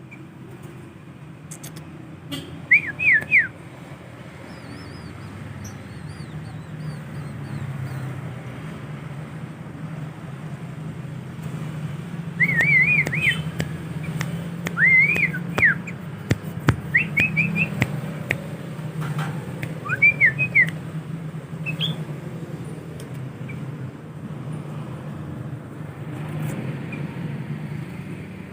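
Sooty-headed bulbul giving short, clear whistled phrases of rising-and-falling notes: one brief phrase about three seconds in, then a run of several phrases in the middle, over a steady low hum.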